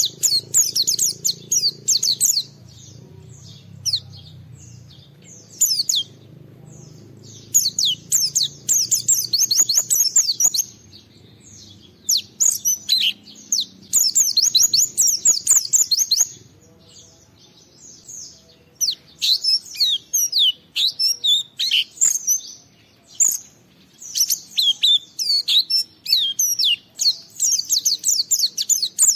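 White-eye (pleci) singing a rapid, high twittering song in bursts of a few seconds, separated by short pauses.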